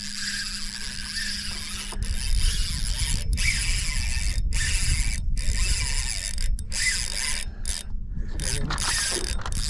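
Fishing reel being cranked to retrieve a lure, a whirring ratchety sound in spells broken by several brief pauses. A low rumble runs underneath and gets stronger about two seconds in.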